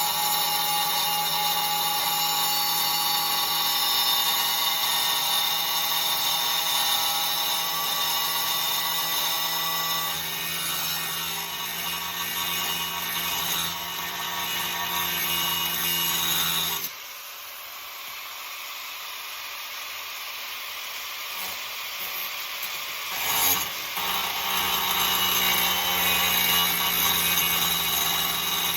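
Cutoff wheel running and cutting into a sheet-steel engine windage tray, a steady high-pitched whine with grinding. It stops for several seconds about two-thirds of the way through, there is a short knock, and then it starts cutting again.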